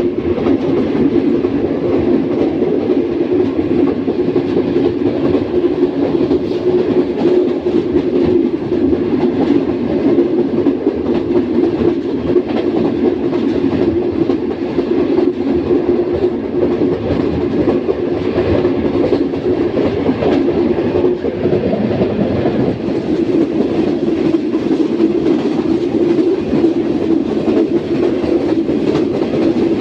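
Track rumble of a passenger train's coach wheels on the rails at speed, heard from aboard the moving train: a steady, loud rolling rumble with a dense clickety-clack running through it.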